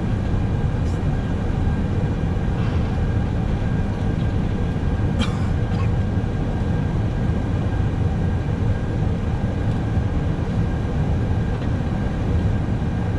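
Steady low rumble and air hiss inside an Airbus A321 cockpit on the ground before takeoff, with a faint steady high tone throughout.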